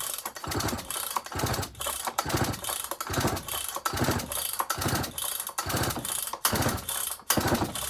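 Dolmar 6400 chainsaw's recoil starter pulled over and over, about once a second, the engine cranking on compression without firing. It is being pulled to draw fuel up through a fuel line that stays dry.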